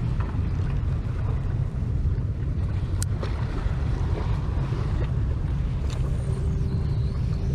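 Wind buffeting the microphone as a steady low rumble, with a sharp click about three seconds in and a faint hum coming in near the end.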